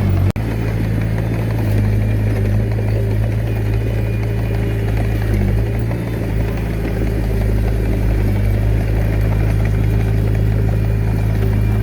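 Komatsu D21A mini bulldozer's diesel engine running steadily with a low, even drone, with some clatter. The sound cuts out for an instant about a third of a second in.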